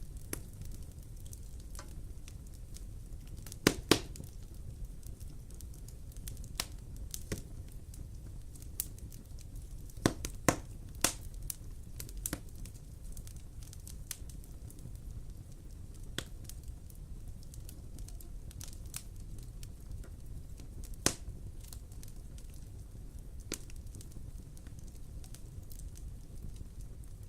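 Wood fire burning in a fireplace, crackling over a steady low rumble, with sharp pops now and then: two loud ones about four seconds in, a cluster around ten to eleven seconds, and another near twenty-one seconds.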